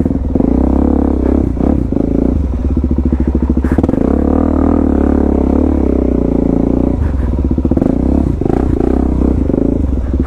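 Suzuki DR-Z400S's single-cylinder four-stroke engine, fitted with a slip-on exhaust, running steadily at low revs as the bike is ridden over rough ground, the throttle easing and picking up again a few times. A sharp knock sounds about a third of the way in.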